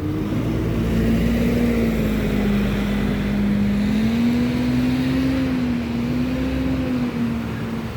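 A double-decker bus running close by as it pulls in, a steady drone that wavers slightly in pitch over a low rumble which eases off near the end.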